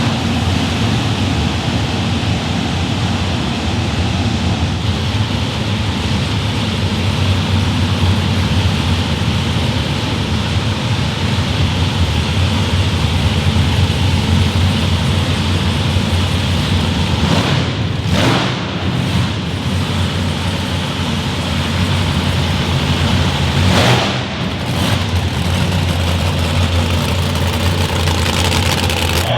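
A loud pulling vehicle's engine running steadily, with brief breaks about 18 and 24 seconds in.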